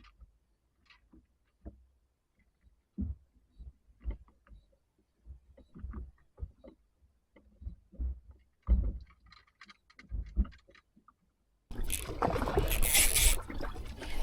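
Scattered dull knocks and thumps on a fishing boat, then about twelve seconds in a loud steady rush of wind and water noise starts.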